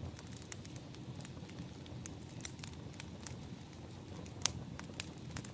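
Burning firewood crackling, with irregular sharp pops, the loudest about four and a half seconds in, over a low steady rumble.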